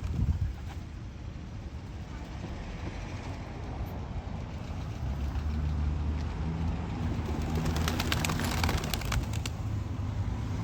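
Steady traffic rumble with a vehicle engine growing louder from about halfway through. Near the end comes a rapid clatter lasting about two seconds.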